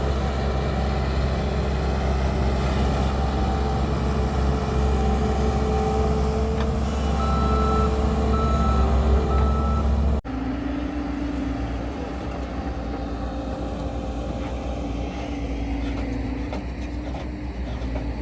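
Heavy diesel engines of a JCB excavator and tipper truck running steadily, with a reversing alarm beeping three times about two-thirds of the way through. Just past halfway the engine sound breaks off abruptly and carries on at a different, lower-pitched steady note.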